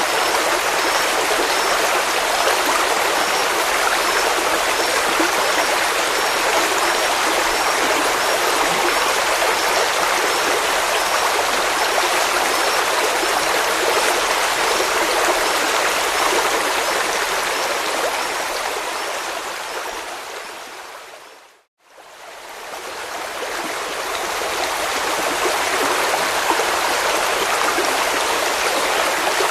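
Running water of a stream, a steady rushing and gurgling. About two-thirds of the way through it fades smoothly away to silence and fades back up again, the join of a looped recording. A faint high chirp repeats about once a second through the first half.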